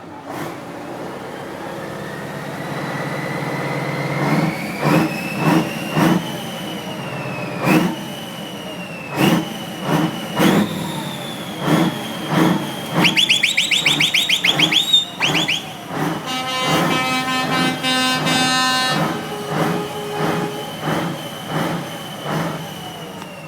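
Scania 140's 14-litre V8 diesel being revved hard while parked: a rising whine as the revs climb, then repeated sharp throttle blips about once a second, with a fast flutter partway through and a steady pitched tone held for a couple of seconds.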